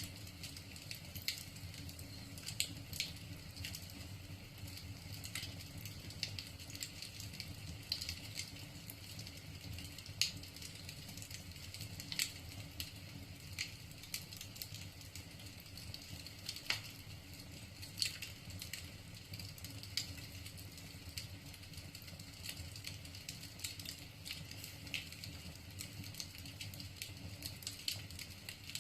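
Wood fire crackling in a fireplace: irregular sharp pops and snaps of burning logs over a low steady rumble.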